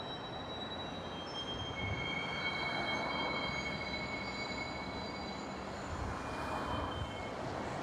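Train running on the track: a steady rumble with several thin, high-pitched wheel squeals that come and go.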